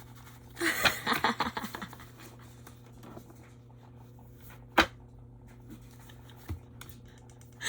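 Tarot cards being handled: about a second of rustling and flicking starting just under a second in, then a single sharp tap near the middle and a fainter one later, over a steady low hum.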